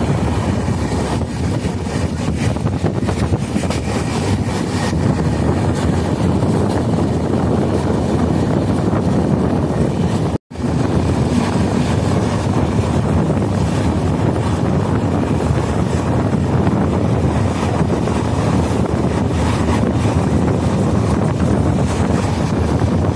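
Wind rushing over a phone microphone held out of a passenger train running at speed, mixed with the steady rumble of the coach on the track. The sound cuts out for an instant about ten seconds in.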